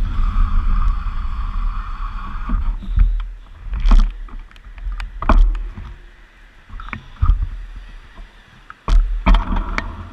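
Wind rumbling on a bike-mounted microphone during a bicycle ride, with a steady hiss for the first few seconds. After that come scattered sharp knocks and thumps, the rumble dropping away between them.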